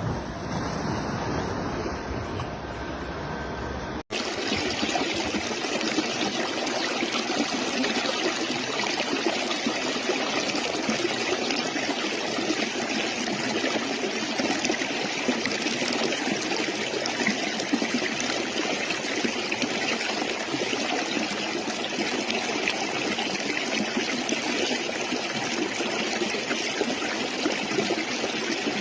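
A stream running and trickling steadily, a dense even rush of water. About four seconds in, an abrupt cut joins it from a different recording with a deeper, rumblier rush.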